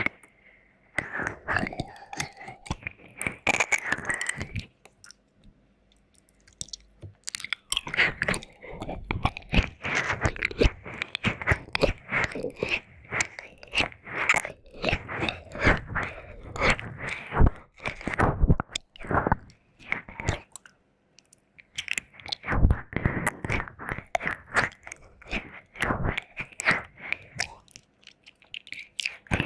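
Wet mouth sounds and licking close to the microphone: fast runs of sticky clicks and smacks, with two short pauses, about five seconds in and about two-thirds of the way through.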